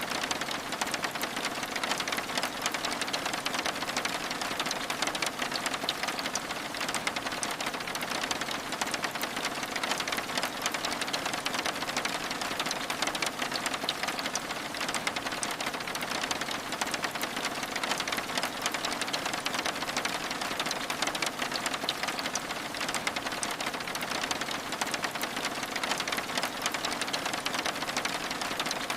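Steady rain pattering on window glass, a dense, even hiss of countless fine drop ticks.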